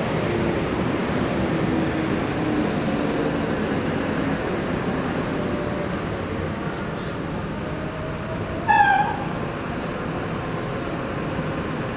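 Steady rumble of large bus engines and traffic. A low engine tone sinks slightly over the first few seconds, and a brief high-pitched sound cuts through about nine seconds in.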